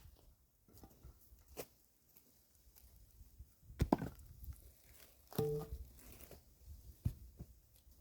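Firewood being split and handled: a few scattered wooden knocks and thuds, one a second or two apart at most, one of them briefly ringing.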